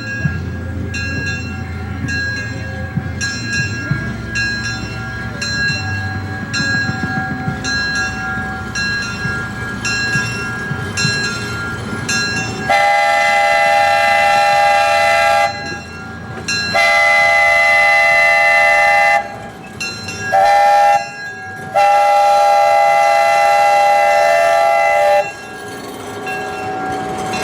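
Small park-train locomotive running, with a low rumble and a ringing strike about once a second. Then its multi-note chime sounds two long blasts, one short and one long: the standard grade-crossing signal.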